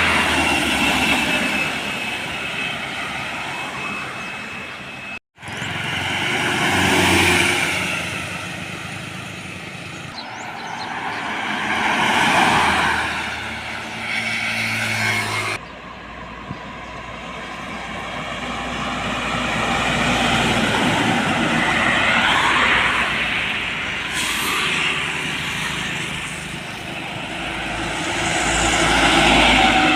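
Heavy trucks passing one after another on a road, diesel engine and tyre noise swelling as each one nears and fading as it goes. The sound drops out suddenly for a moment about five seconds in.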